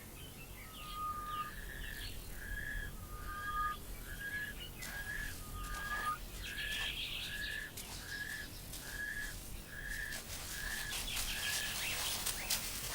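Bird calling in the bush: a long series of short, clear whistled notes repeated at an even pace, a little more than one a second, with other birds chirping higher up.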